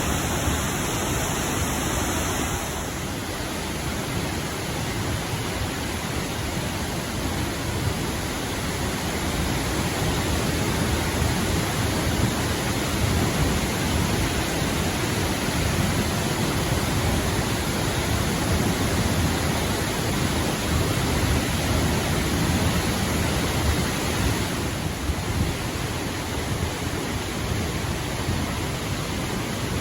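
Steady rushing roar of a waterfall, heaviest in the low end.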